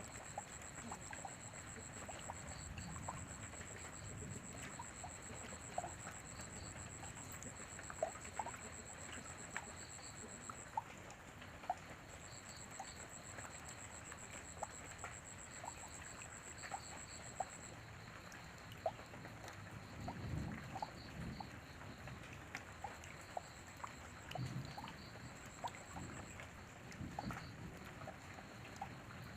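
Light rain with scattered drops tapping and dripping, under a steady high-pitched trill of crickets that drops out twice. There are a few brief low rumbles about twenty seconds in.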